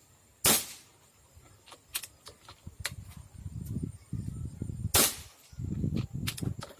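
Air rifle fired twice, two sharp cracks about four and a half seconds apart, while testing a 20-round magazine. Between the shots come several small metallic clicks, typical of the bolt being cycled to feed the next pellet, and low handling rumble.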